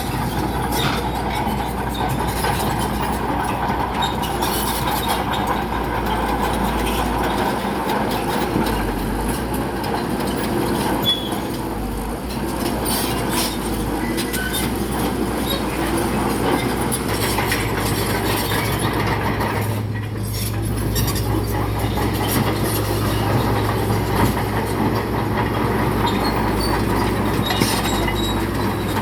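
Crawler bulldozer at work: its diesel engine drones steadily under a continuous clatter and scraping of steel tracks and rock. A steadier low hum joins a little past halfway.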